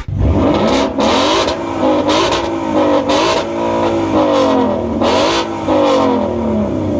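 A car engine revved hard over and over, loud, its pitch climbing and dropping with each stab of the throttle.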